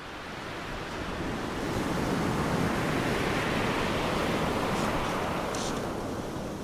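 Waves breaking and washing on a beach, a steady rush of surf that swells over the first couple of seconds and eases slowly toward the end.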